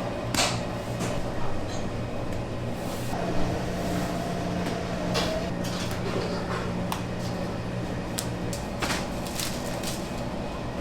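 Steady machine hum in a bakery workroom, with scattered knocks and clicks of trays and utensils being handled.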